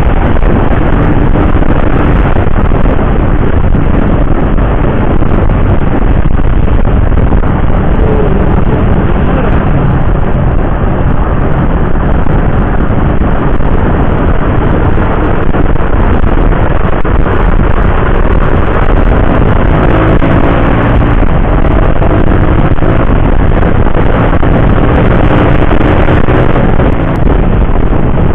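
Motorcycle riding at road speed: a steady rush of wind noise over the microphone with the engine running underneath, its pitch rising at times as it speeds up.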